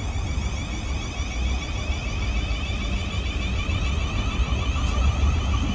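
Train pulling out of the station: a steady low rumble that grows gradually louder.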